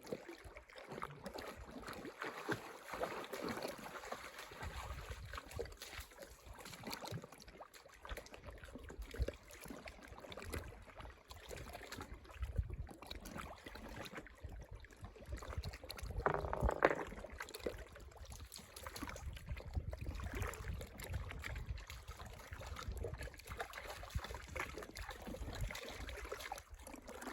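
Shallow lake water lapping and splashing around a dog wading among rocks, with a louder moment of splashing about sixteen seconds in.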